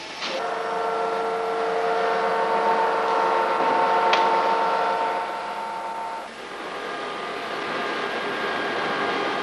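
Workshop machine tool running with a steady whine of several tones, which cuts off about five to six seconds in, followed by a steady rushing hum. A single sharp click sounds about four seconds in.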